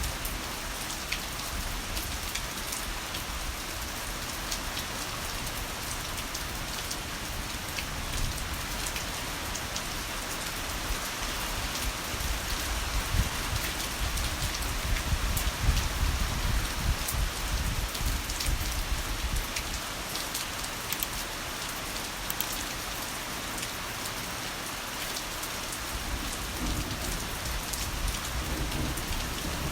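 Heavy rain falling steadily, a dense hiss with many close drop impacts. About halfway through, a low rumble of thunder swells and fades.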